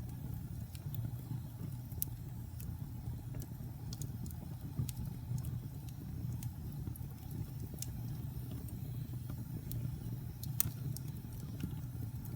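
Fire burning in a fireplace: a steady low rumble with irregular sharp crackles and pops, one louder pop about ten and a half seconds in.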